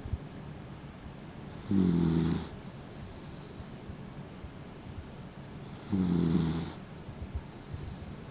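Elderly dachshund snoring in its sleep: two snores about four seconds apart, each lasting under a second.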